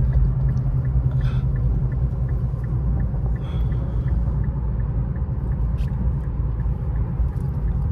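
Steady low rumble of an Infiniti Q50's 3.7-litre V6 and its tyres on a snowy road, heard from inside the cabin while driving.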